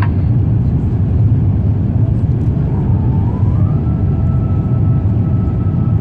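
Steady low drone of engine and airflow noise inside the cabin of an Airbus A350 climbing after takeoff. About halfway through a faint thin tone slides up in pitch and then holds steady.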